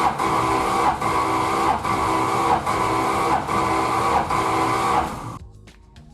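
1969 Chrysler Newport's V8 being cranked over by its starter motor during a compression test, in an even rhythm of about one heavy beat every 0.8 s. The cylinders are building very little compression. The cranking stops about five seconds in.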